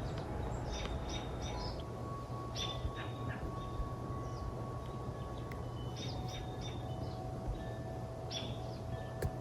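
Forest birdsong: wild birds giving short, high chirping phrases in clusters every second or two, over a steady low background rumble. A single sharp click near the end.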